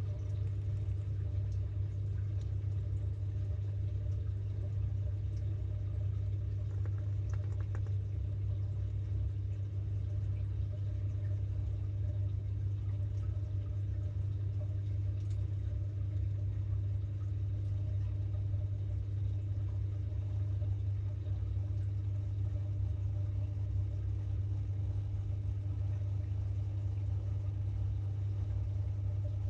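Samsung 6.5 kg top-load washing machine running with a steady, unbroken motor hum, heard from inside the drum.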